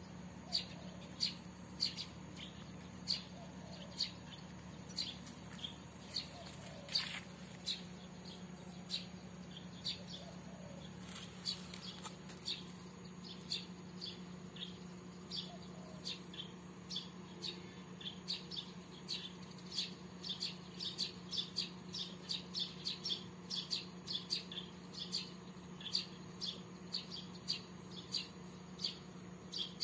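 A bird calling with short, high chirps repeated at a steady pace, about two a second at first and quickening to about three a second in the second half, over a faint steady high-pitched tone.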